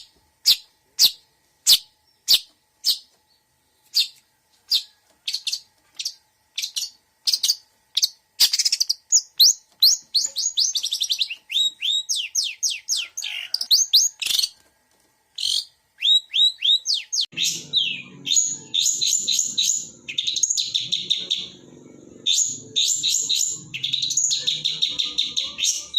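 Long-tailed shrike (cendet) singing a song mixed with mimicked phrases of other birds. It opens with sharp single calls repeated about every half second, speeds up into quick sweeping notes, and from about two-thirds of the way through becomes a dense, continuous chattering warble.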